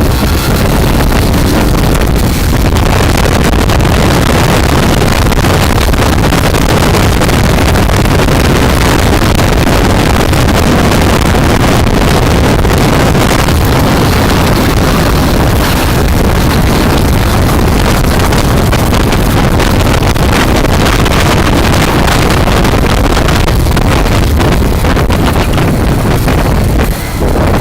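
Motorcycle running at road speed, its engine rumble under heavy wind rushing over the microphone; it drops briefly near the end.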